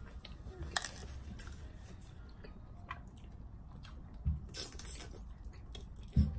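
Someone eating pork noodle soup: quiet chewing, with a few short clicks and low thumps of utensils and bowl.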